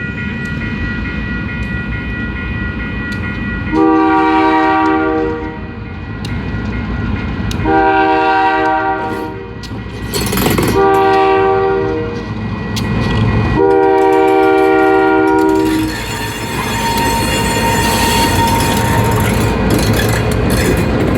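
Freight train's diesel locomotive horn blowing four blasts, long, long, short, long: the standard signal for a grade crossing. It sounds over the low rumble of the diesel engines working as the train departs. In the last few seconds the rolling cars take over, with wheels clacking and a thin squeal.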